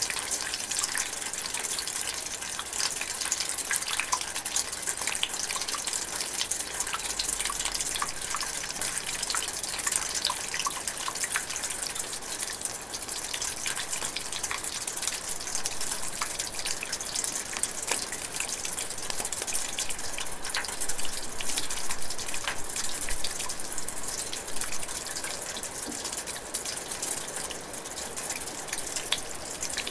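Steady light rain falling in a forest, a constant hiss with many separate drops pattering and dripping.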